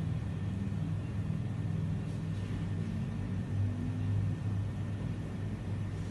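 Steady low rumble of a car's engine and road noise, heard from inside the car's cabin.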